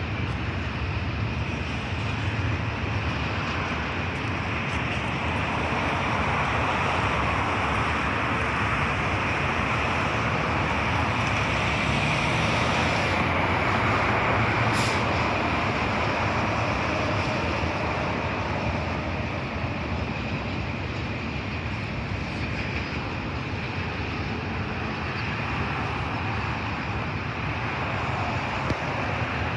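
A train passing: a steady rumble and rolling noise of wheels on rail that swells slightly near the middle, with one brief high-pitched squeak about halfway through.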